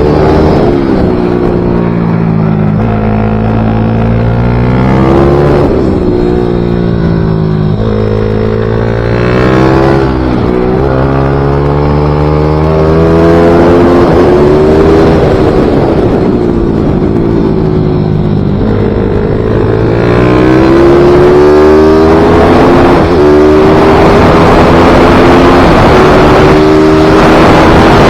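Small racing motorcycle's engine on a flying lap, revving up through the gears and dropping back again and again. Wind rushing over the microphone grows louder in the last third.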